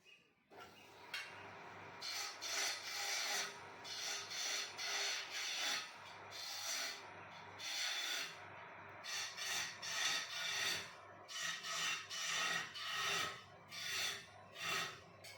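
Wood turning lathe running with a steady motor hum that starts about half a second in. A tool or abrasive scrapes the spinning wood in repeated passes, about two a second.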